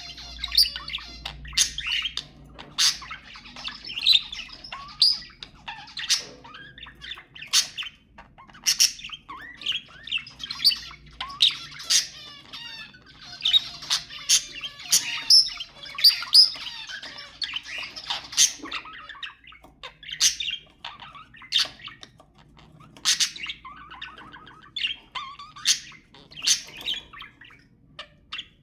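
Budgerigars chattering and warbling, with a dense run of sharp chirps and squawks mixed into the rapid chatter.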